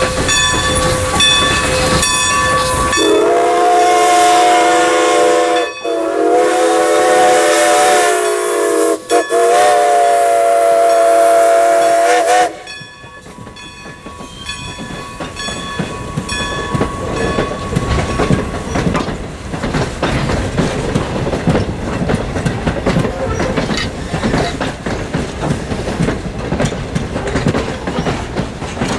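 A steam locomotive's whistle sounds one long chord-like blast of several tones for about nine seconds, with two brief breaks. The train then clatters past over the rail joints for the rest of the time.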